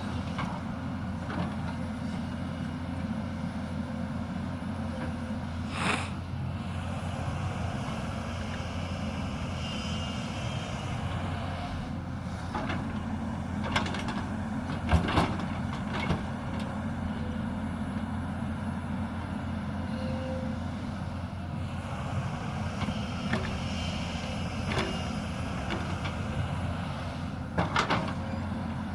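Hyundai 220 crawler excavator's diesel engine running steadily under working load, with a few sharp knocks scattered through, the loudest a little past halfway.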